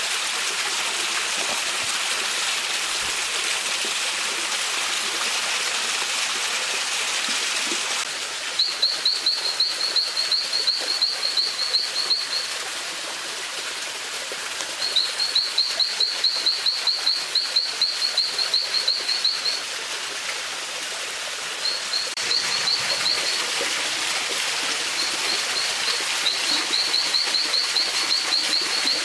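Mountain stream running steadily. About eight seconds in it gives way abruptly to a bird's high, rapid chirping, about four chirps a second, in runs of a few seconds separated by short pauses.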